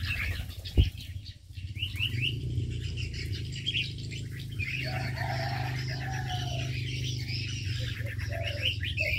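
Aviary birds: many short high chirps from small birds throughout, and from about five seconds in a dove cooing in a series of short arched notes. A single low thump about a second in, over a steady low hum.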